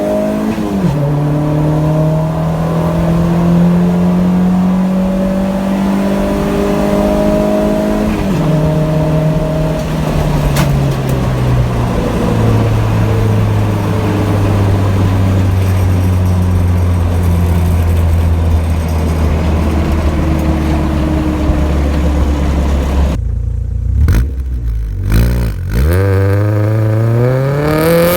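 Honda D16A four-cylinder running through an HKS Hi-Power exhaust while driving: the engine note climbs and drops sharply twice at gear shifts, eases down to a steady low drone, then rises again near the end as the revs climb.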